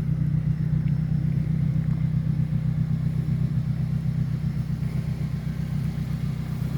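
2008 Morgan Plus 4's 2-litre Ford Duratec four-cylinder engine idling steadily.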